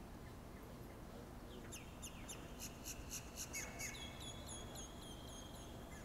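A songbird singing: about two seconds in, a quick run of sharp chirps, then a string of short, rapidly repeated slurred whistled notes, about four seconds of song in all, over a steady low background rumble.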